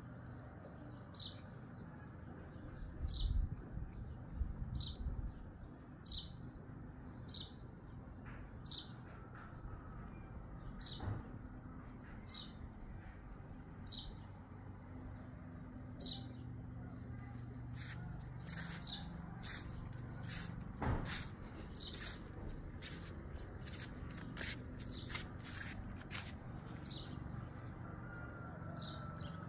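A small songbird repeats a short, high, falling chirp about once every second and a quarter. From about halfway in, the chirps come thicker and faster, as from more than one bird, over a steady low background hum. A few low bumps sound near the start.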